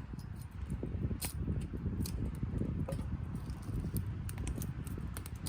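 Softwood fire burning in a Solo Stove-style wood-gas stove: a steady low rumble of flame with scattered sharp crackles and pops.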